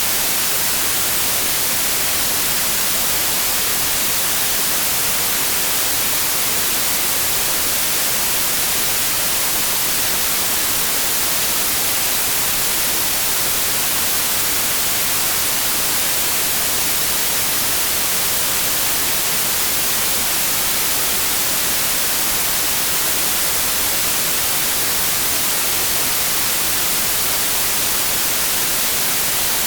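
Steady white noise, an even hiss that is brightest in the treble and never changes.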